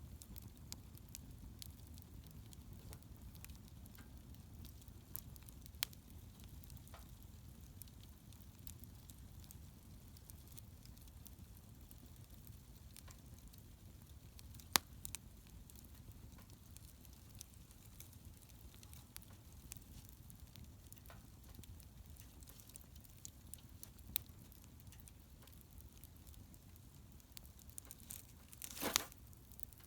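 Wood fire burning quietly, crackling softly with occasional sharp pops a few seconds apart and a short louder crackling burst near the end.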